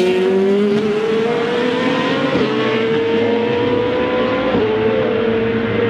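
Race car engine accelerating hard through the gears, its note climbing steadily and dropping briefly at two upshifts, about two and a half and four and a half seconds in.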